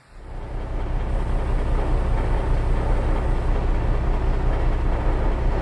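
Bulldozer's heavy engine running steadily, a low, fast-pulsing rumble that fades in over the first second.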